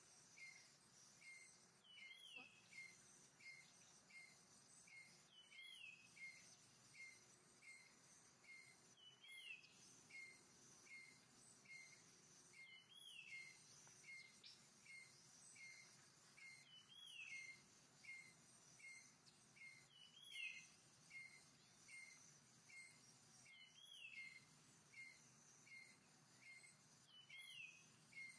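Faint bird calling over and over in short chirps, about two a second, with a longer dipping-and-rising call every three to four seconds, over a steady high insect hum.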